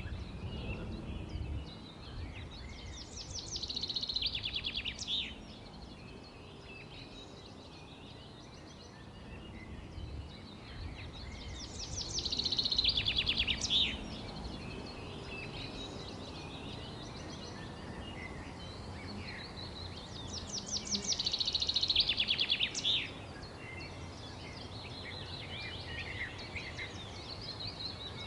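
Songbirds chirping, with one bird repeating a loud, fast trilled song phrase three times, about every nine seconds. Other softer chirps run between the phrases over a steady low background rumble.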